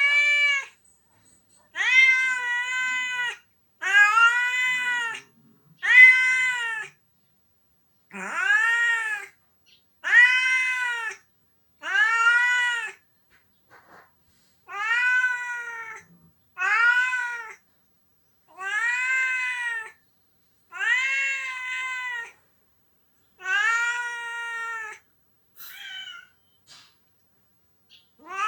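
Domestic cat crying with a string of long meows, about a dozen, one every two seconds or so, each rising and then falling in pitch. The calls fade to a few faint short sounds near the end.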